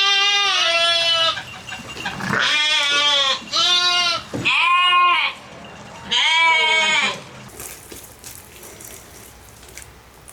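Goat bleating repeatedly: about five long, wavering calls close together, stopping about seven seconds in.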